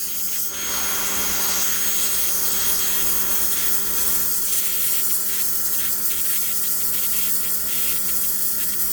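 Makita 240-volt electric pressure washer running steadily: a constant motor-and-pump hum under the hiss of the water jet.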